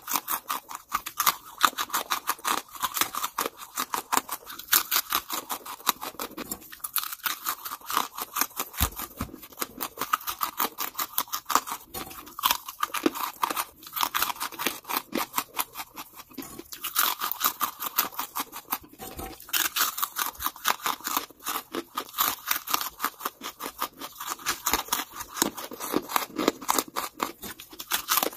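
Chunks of charcoal bitten and chewed close to the microphone: a fast, unbroken run of crisp crunches, several a second.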